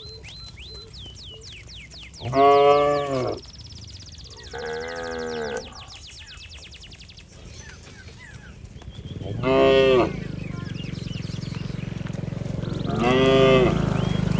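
Cows mooing: four separate moos, a loud one about two seconds in, a quieter one around five seconds, then two more loud ones near ten and thirteen seconds. Short high chirps run through the first few seconds, and a steady low hum sets in about nine seconds in.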